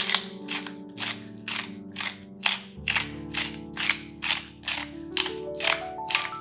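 Food preparation: short, crisp strokes repeating about three times a second, with soft piano music underneath.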